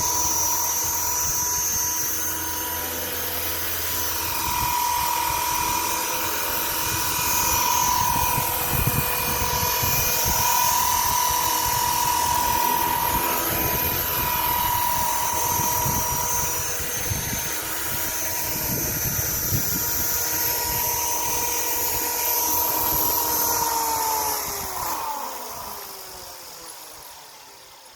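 Electric T-Rex RC helicopter hovering: a steady high whine from the motor and spinning rotors that wavers slightly in pitch. About 24 s in it spools down, the whine falling in pitch and fading out. Wind buffets the microphone with low gusty rumbles.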